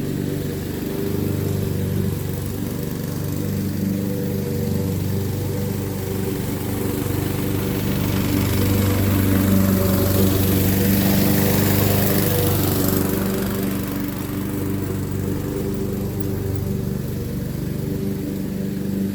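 Honda HRX217 walk-behind lawn mower running steadily under load while mowing thick, wet grass with the bagger on. Near the middle a rushing hiss swells and fades over a few seconds on top of the engine's steady tone.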